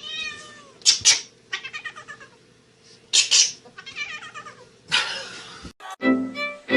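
Domestic cat meowing several times, in short calls, some with a quick pulsing quality, mixed with a few brief sharp noisy bursts. Music starts near the end.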